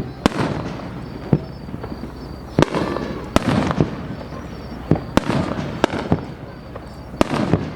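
Aerial fireworks bursting: about nine sharp bangs at uneven intervals, some in quick pairs, each followed by a crackling, echoing tail.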